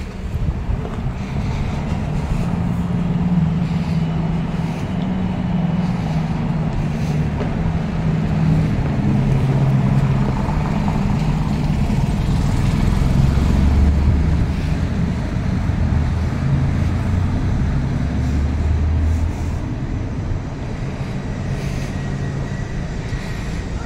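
A motor vehicle's engine running close by, a low hum that shifts in pitch, over general street noise.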